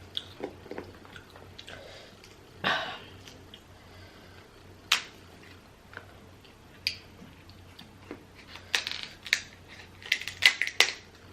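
Eating a seafood boil: scattered sharp clicks and cracks of shells being broken and chewed, with a short crunch about a third of the way in and a quick run of cracks near the end.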